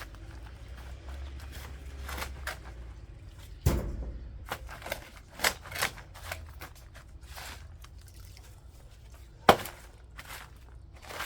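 Soil being worked by hand with a garden tool: irregular scrapes, steps and dull knocks, with two sharper strikes about four seconds in and near the end.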